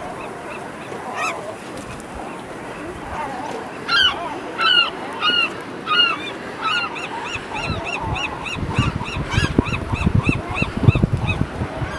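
Gulls calling: a few separate calls about half a second apart, then a quick run of about four calls a second from about six seconds in, with low rumbling thumps underneath in the second half.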